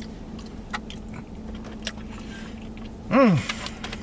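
A man eating, with a few small clicks of food and utensils over a steady low hum, then one short voiced "mm" of enjoyment about three seconds in, rising and falling in pitch.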